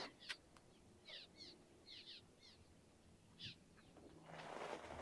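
Faint bird calls: a run of short, quick chirps repeating every half second or so, with a single click shortly after the start. A rush of noise builds near the end.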